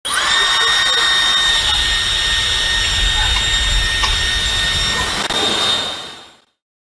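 Dyson Supersonic hair dryer running: its motor spins up with a quick rising whine at switch-on, then blows steadily with a high whine over the rush of air, and winds down about six seconds in.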